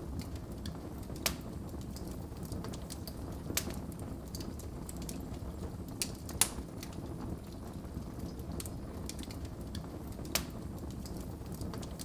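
Wood fire burning in a fireplace, a steady low rush of flames with irregular sharp crackles and pops, a few of them louder.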